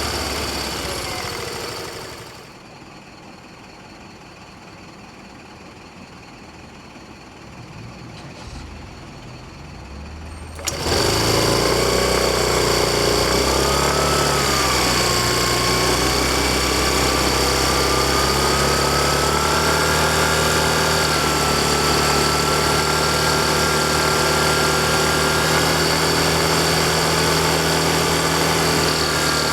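Yamaha Fazzio scooter's 125 cc single-cylinder engine dies away and cuts out about two seconds in, leaving a quieter stretch. About eleven seconds in it starts abruptly and keeps running steadily, with a whine that wavers and then slowly rises in pitch.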